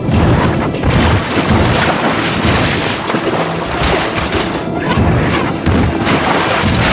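Action-scene soundtrack: dramatic music under loud, repeated crashing booms and impacts.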